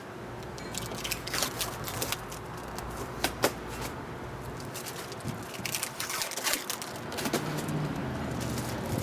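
Hands working inside a car door: tape crackling as it is peeled from the window glass, with scattered sharp clicks, knocks and scrapes as the glass is pushed up inside the door, in two busy spells separated by a quieter moment in the middle.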